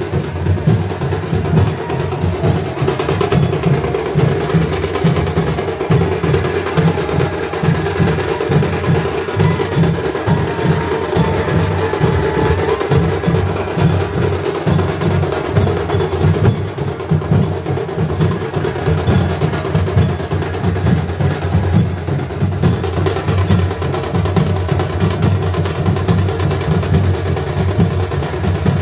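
Live percussion music: fast, continuous drumming made of rapid, sharp strikes over a steady low drum beat, with no singing.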